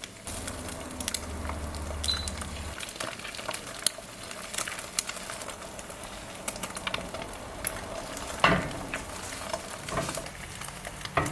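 Eggs sizzling as they fry in olive oil in a pan, with a utensil repeatedly scraping and tapping against the pan.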